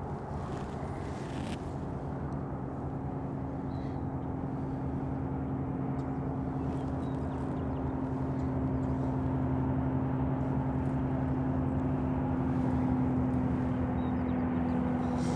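Aircraft passing overhead: a steady low engine hum that grows slowly louder.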